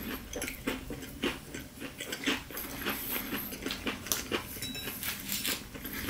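Close-miked chewing of a crispy breaded fried chicken sandwich: irregular crunching clicks, several a second.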